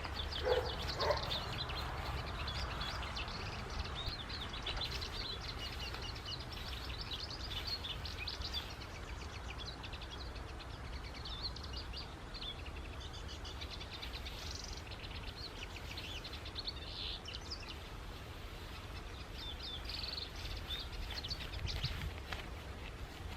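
Outdoor ambience of many small birds chirping and twittering, short calls repeating throughout, over a steady low rumble.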